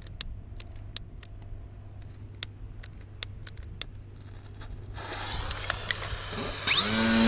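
Light scattered clicks over a low hum. Then, from about five seconds in, a rising hiss and an RC racer plane's motor and propeller spooling up with a rising whine that settles into a steady pitched drone near the end.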